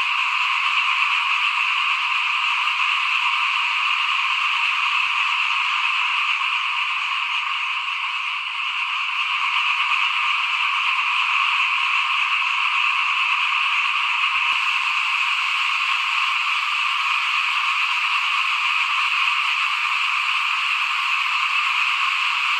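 Dense chorus of many small frogs calling at once in a flooded rice field. It forms a steady, unbroken wall of sound.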